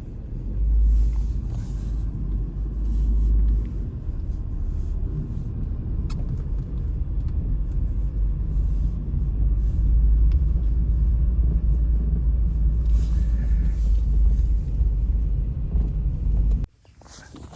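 Blizzard wind buffeting the microphone: a loud low rumble that cuts off suddenly near the end.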